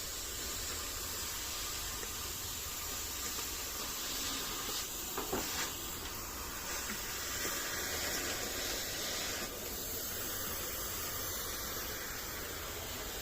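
A steady hiss, with a few short clicks about five seconds in.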